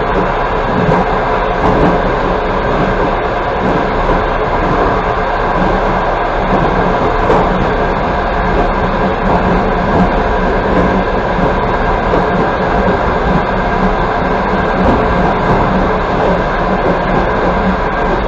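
Passenger train carriage running at speed, heard from inside the carriage: a steady rumble and rolling noise of the wheels on the rails.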